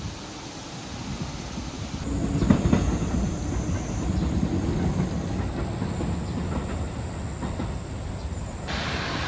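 Low rumble of a passing vehicle, swelling about two seconds in and holding until near the end.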